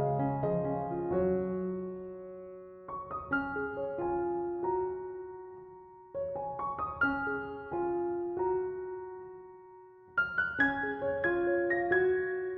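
Background piano music: gentle phrases of struck notes that ring and die away, with a new phrase starting every three to four seconds.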